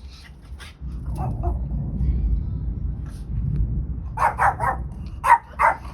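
Thunder rumbling low for a few seconds, then a dog barking five times in quick bursts near the end.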